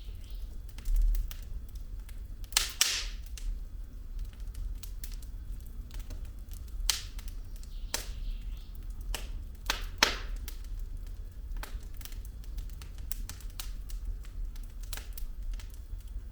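Wood fire burning in a fireplace: logs crackling with irregular sharp pops and snaps, a few louder ones, over a steady low rumble of the flames.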